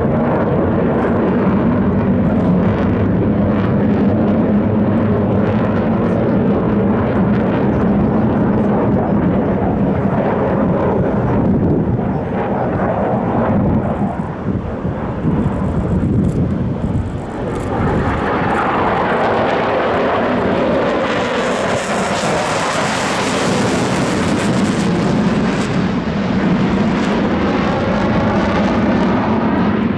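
Aircraft engine noise from a display flypast, loud throughout. It dips briefly about halfway, then swells to its loudest and hissiest as the aircraft passes close, about two-thirds of the way in, before easing off.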